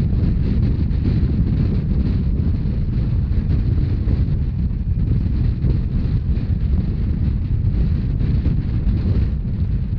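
Steady low rumbling noise of a Rhaetian Railway narrow-gauge train running at speed, with wind buffeting the microphone.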